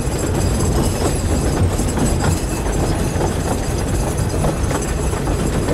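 Narrow-gauge Talyllyn Railway carriage running along the line: a steady rumble and rattle of wheels on rails with frequent small clicks.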